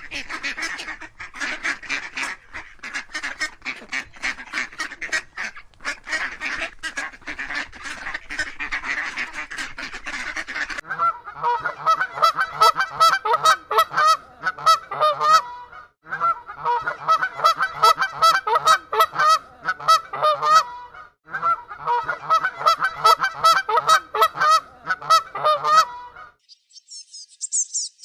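A flock of birds honking and calling, like geese or other fowl. About 11 seconds in it changes to a faster run of pitched calls, broken by two short pauses. A high insect-like chirring begins near the end.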